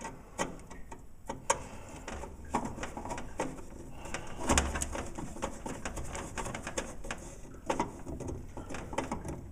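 Scattered clicks, taps and knocks of hands and tools handling furnace parts, with a dull thud about halfway through.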